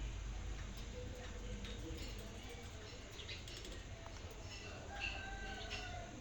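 Australian parrots chirping and chattering faintly, with scattered short calls and a few thin whistled notes, one longer note falling slightly near the end. A low steady hum runs underneath.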